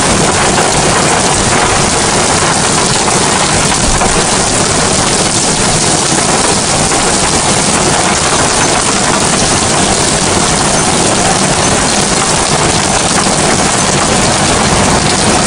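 Heavy rain pouring steadily, a loud, even hiss with a low rumble underneath and no separate drops or claps standing out.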